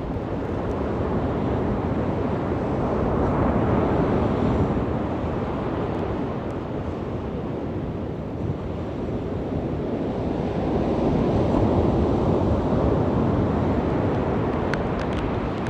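Ocean surf on a beach: waves swelling and washing in twice, about eight seconds apart, with a steady rush of water between.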